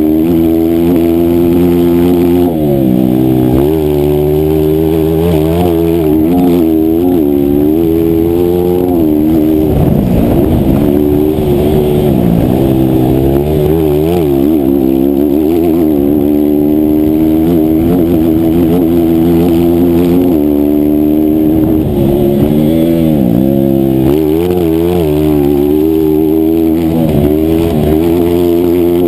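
Single-cylinder 160cc racing motorcycle engine running hard, its pitch rising and falling again and again as the rider accelerates, shifts and backs off, with deeper drops about ten seconds in and again near the end.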